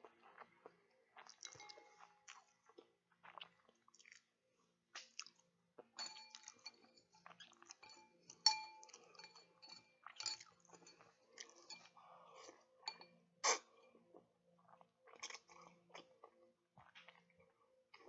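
A person eating with the food close to the microphone: chewing with irregular wet mouth clicks and smacks.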